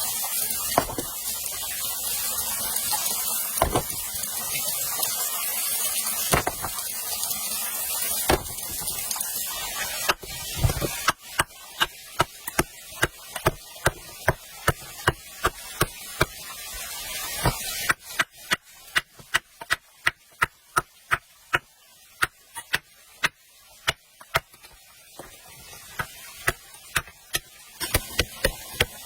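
A steady rushing hiss with a few separate knocks for about the first ten seconds, then a long run of sharp chopping strikes, about three a second, with a short pause about eighteen seconds in.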